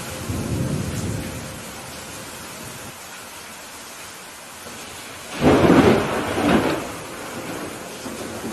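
Steady rain with thunder. A low rumble fades over the first second or so, then a loud, sudden thunderclap about five and a half seconds in rolls on for about a second and a half before the rain carries on alone.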